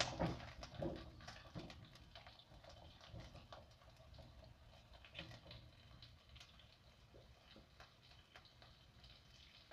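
Garlic and dried shallots frying gently in oil in a wok at medium heat, with faint scattered crackles and pops. A few louder spatula knocks and scrapes come in the first second.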